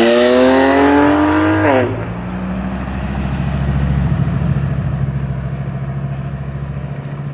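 An engine revving hard, its note climbing for about two seconds and then cutting off sharply, followed by a lower, steady running note.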